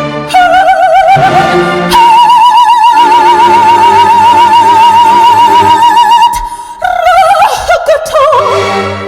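A woman singing in an operatic style with wide vibrato over instrumental accompaniment. She holds one long high note for about four seconds, then moves down to lower notes.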